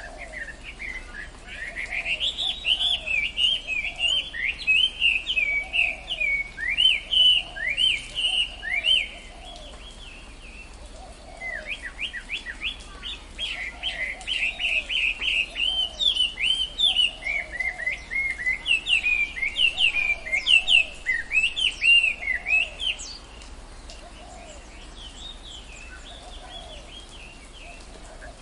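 Tropical forest birdsong: a bird sings two long bouts of quick, sweeping chirps, the first starting about a second in and the second after a short pause. A fainter, lower note repeats about once a second behind it.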